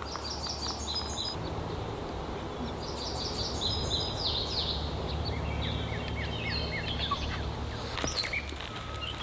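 Songbirds singing, with short phrases of high chirps repeating over a low steady rumble.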